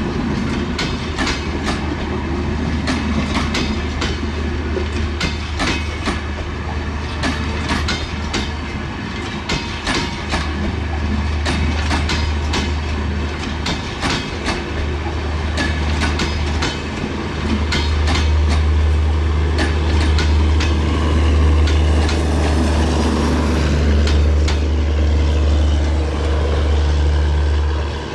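Bangladesh Railway intercity passenger coaches rolling past, their wheels clacking over the rail joints in quick, uneven clicks. A steady low rumble underneath grows louder in the second half as the clicking thins out.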